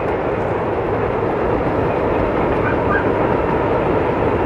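CSX freight train's cars rolling across a steel truss bridge, a steady rumbling noise.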